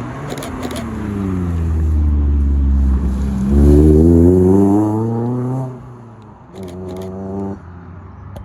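A supercar's engine passing close: the note falls, then climbs as the car accelerates. It is loudest around four seconds in and cuts off sharply before six seconds. A shorter, steady engine note follows briefly.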